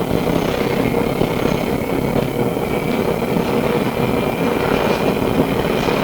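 Interior running noise of a Melbourne SW5 class tram in motion: a steady rumble of steel wheels on rails and running gear, with a thin, high steady whine above it.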